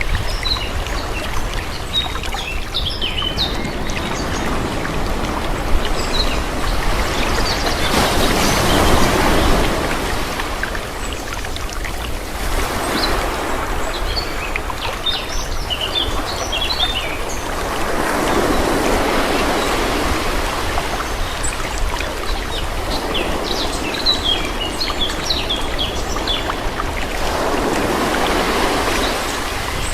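Calm sea: small waves washing in and fading out in slow surges every few seconds, with birds chirping throughout.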